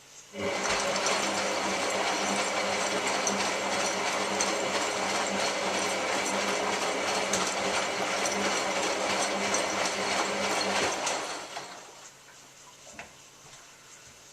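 Hotpoint 9534A washing machine's motor turning the drum, starting suddenly and running steadily for about eleven seconds before winding down and stopping. This on-off pattern is the drum's tumble action during the wash programme.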